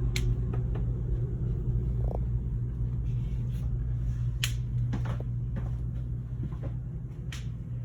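Fifth-wheel toy hauler's front and rear air conditioners running with a steady low hum, really pretty quiet. A few sharp clicks sound over it: one at the start, one about four and a half seconds in and one near the end.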